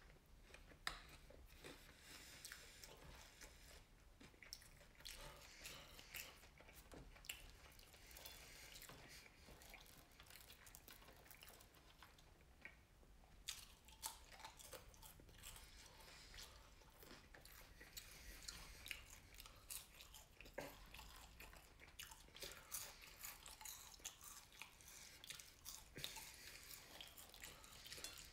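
Quiet close-up chewing and crunching of fried catfish nuggets and fries, with many small wet mouth clicks, briefly pausing about halfway through.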